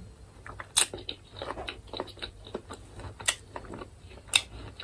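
Close-miked chewing of chicken with sharp wet mouth smacks and clicks, the loudest about a second in, a little after three seconds and near the end.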